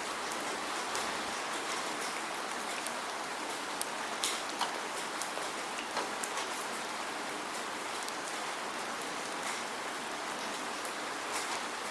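Steady rain falling without thunder: an even hiss with many separate drops ticking sharply through it.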